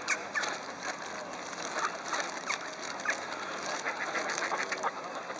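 Scattered short bird calls, several at a time, over a steady background hiss.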